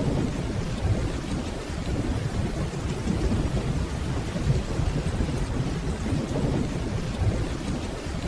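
Steady rainfall with a continuous low rumble of distant thunder.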